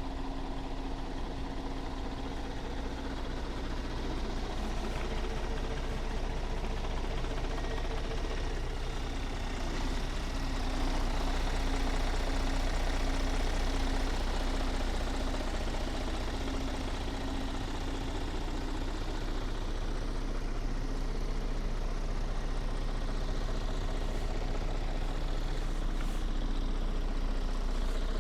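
2018 Scania S450 truck's 13-litre straight-six diesel engine idling steadily, a little louder from about eleven seconds in.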